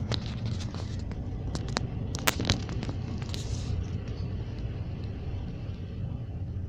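Passenger train running, heard from inside the carriage: a steady low rumble with a run of sharp clicks and knocks in the first two and a half seconds, the loudest two close together, and a short hiss a little after three seconds.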